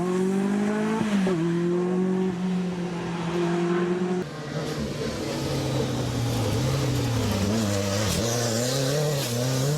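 Rally car engines from the Group B era: a steady, fairly high engine note, then about four seconds in an abrupt cut to a lower engine note that rises and falls with the revs.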